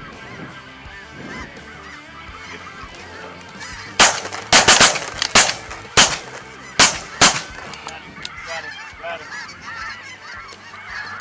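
A flock of light geese (snow geese) calling overhead, with a volley of about eight shotgun shots fired in quick succession a third of the way in.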